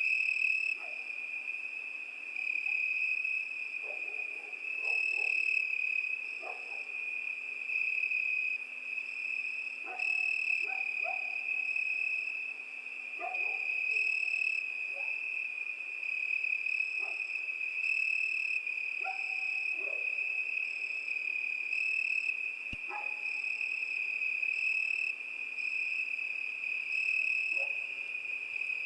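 Crickets chirping in one steady, unbroken high trill, with short lower calls from another night animal breaking in every second or two.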